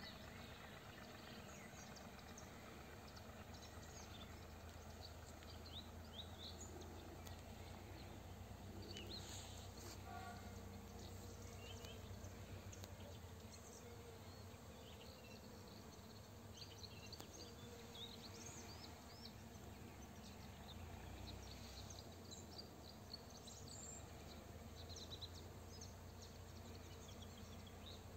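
Faint field ambience: scattered short bird chirps over a low steady hum.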